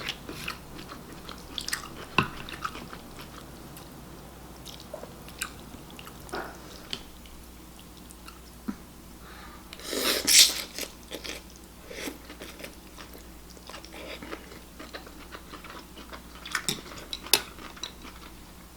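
A person chewing a mouthful of miso ramen close to the microphone, with scattered small mouth clicks and one louder, longer noisy mouth sound about ten seconds in.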